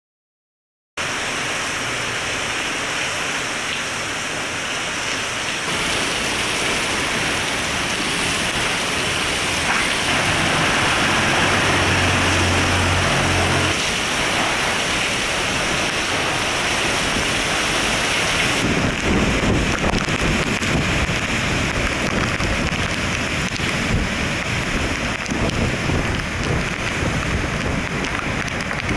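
Hurricane wind and heavy rain: a dense, steady rush that cuts in about a second in. Wind gusts buffet the microphone from about two-thirds of the way through.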